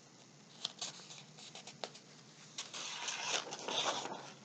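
Picture-book pages being handled and turned: a few light taps, then a couple of seconds of paper rustling.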